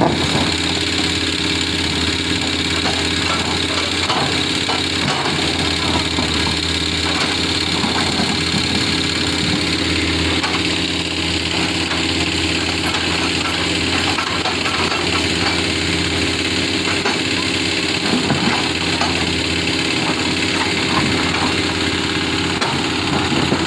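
An engine running steadily, an even low hum that holds without breaks.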